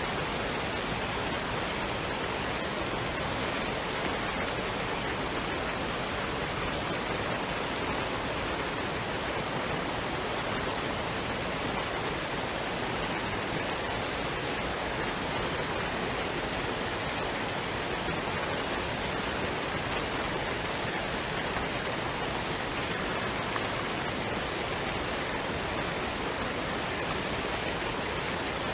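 Waterfall and stream water rushing in a steady, unbroken wash of noise.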